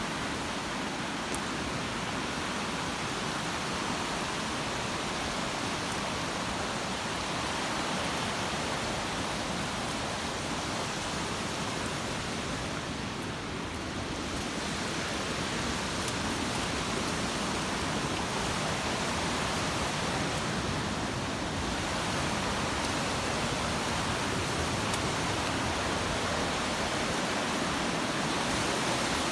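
Waterfall swollen with rainwater running off the hills, a steady rushing of falling water.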